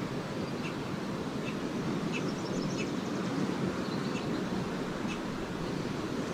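Small lake waves washing steadily onto the beach, with short high twittering calls of swallows scattered throughout.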